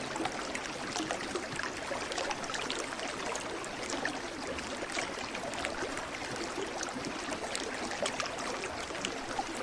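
Running water of a small stream, trickling and splashing steadily.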